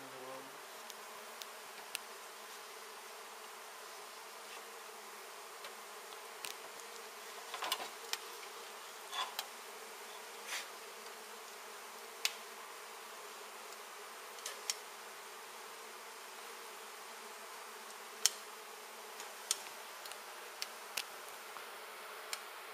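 Steady buzzing of a large mass of honey bees stirred up by an open hive being cut out. Scattered sharp clicks and taps sound over the buzzing, the loudest about eight seconds in and near eighteen seconds.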